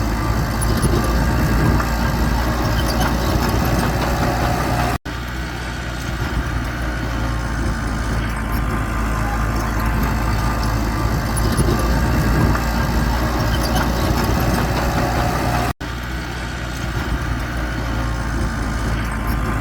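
Mitsubishi bulldozer's diesel engine running steadily, with two brief cuts in the sound about five and sixteen seconds in.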